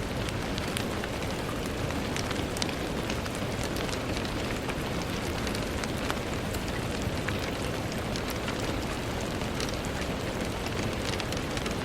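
Steady rain falling on a window, an even hiss with many scattered sharp taps of individual drops.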